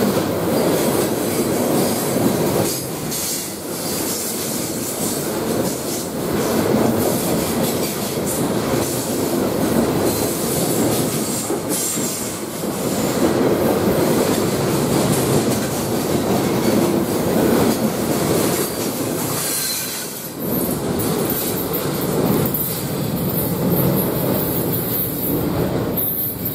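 Loaded coal train's steel hopper cars rolling past close by: a steady rumble and clatter of wheels over the rails, with wheel squeal mixed in.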